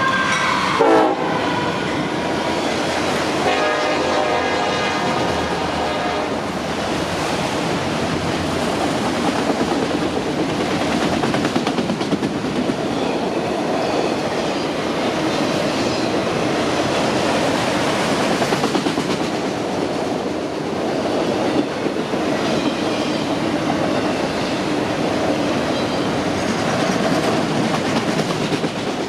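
Train horn sounding briefly at the start and again from about 3.5 to 6 seconds in, over the continuous rumble and rattle of a train passing close by, with the clickety-clack of its wheels over the rail joints.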